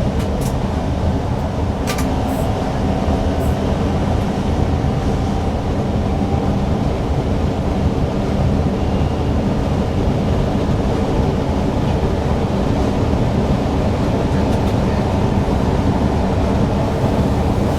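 Newag Impuls EN63 electric multiple unit running along the line, heard from the driver's cab as a steady rumble. There are a couple of sharp clicks about two seconds in.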